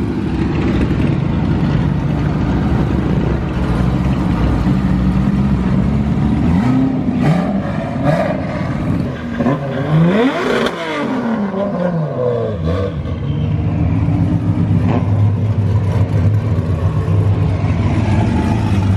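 Drift cars' engines running as they roll slowly past at close range. About halfway through, one passes close by, its engine pitch sweeping up and then down.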